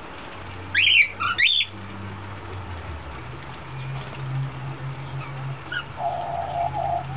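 Pet exotic birds calling: a quick run of loud, harsh squawks with steep up-and-down pitch about a second in, then scattered soft chirps over a low steady hum.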